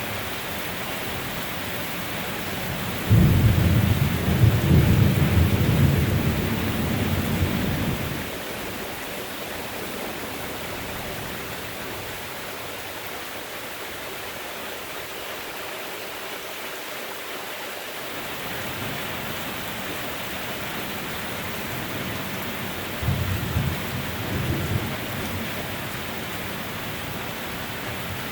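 Steady heavy rain with thunder: a loud clap starts suddenly about three seconds in and rumbles for about five seconds, and a weaker rumble follows near the end.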